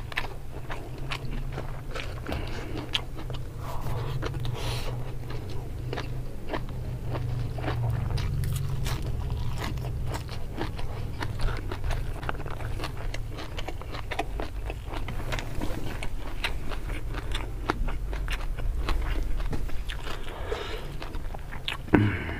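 Close-miked chewing and biting of a hand-eaten mouthful of rice and cepokak (pea eggplants) in chili sauce, with frequent small crunchy clicks.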